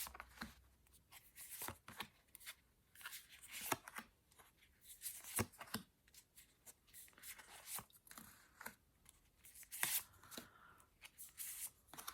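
Tarot cards being shuffled and handled: faint, irregular rustles, slides and light taps of card stock.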